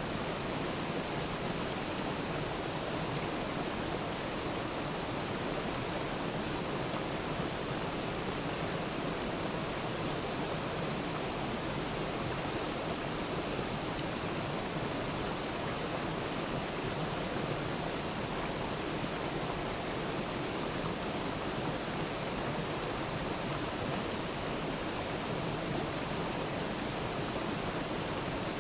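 Waterfall: water falling and splashing in a steady, even rush, without change.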